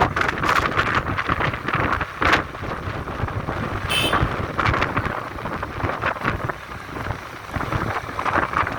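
Wind buffeting the microphone during a motorcycle ride, with gusty rushing noise and vehicle noise beneath. A short high-pitched tone sounds about four seconds in.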